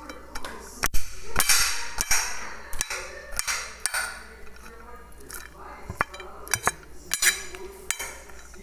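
Kitchen clatter of dishes and cutlery being handled: about fifteen irregular sharp knocks and clinks, with short stretches of scraping noise between them.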